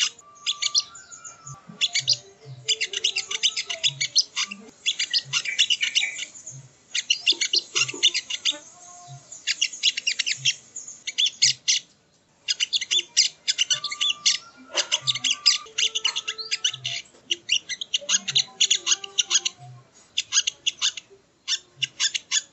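Sogok ontong (little spiderhunter) calling: long runs of rapid, high-pitched chirps in quick succession, broken by short pauses every few seconds.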